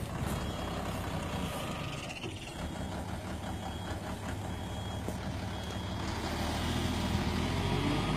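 Kobelco excavator's diesel engine running under steady load while its travel alarm beeps about once a second. The alarm is the sign that the tracks are being driven.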